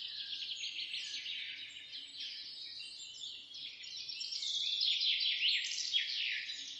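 A chorus of many small birds chirping and singing at once: a dense, unbroken stream of quick, high, falling notes, a little louder in the second half.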